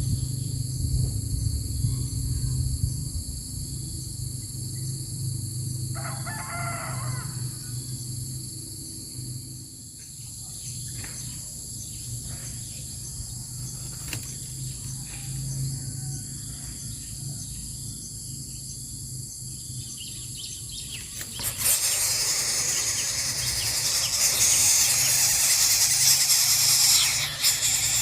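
A steady high insect drone and a low hum run throughout. About three-quarters of the way in, a loud harsh hissing squeal starts and continues, typical of coucal chicks begging in the nest.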